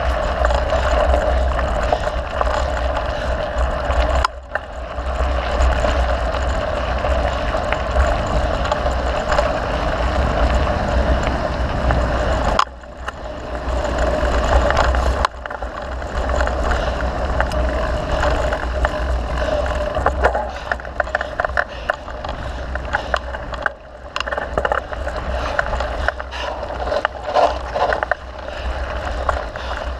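A mountain bike rolling along a dirt trail: a steady low rumble of wind on the microphone and tyres on the ground, with many small rattles and knocks from bumps. The noise drops briefly a few times, at about four seconds, for a couple of seconds mid-way, and again near the end.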